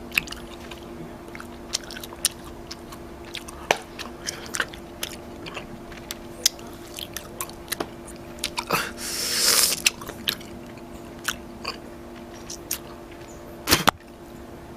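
Bubblegum being chewed with the mouth open: wet smacking clicks scattered throughout, a breathy rush of air about nine seconds in, and a sharp snap near the end.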